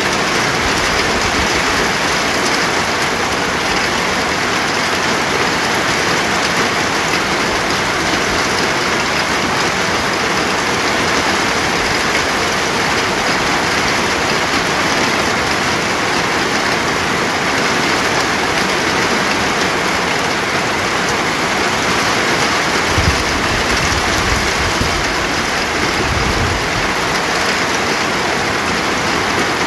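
Steady rain, an even dense hiss of falling drops, with two brief low rumbles about three quarters of the way through.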